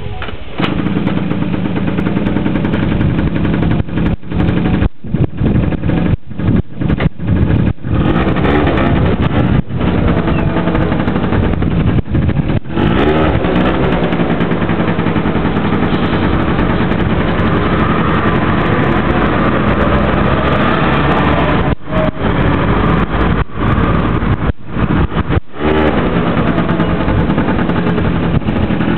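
Honda Gyro X scooter engine running, its pitch rising and falling as it is revved a few times. The sound cuts out briefly again and again.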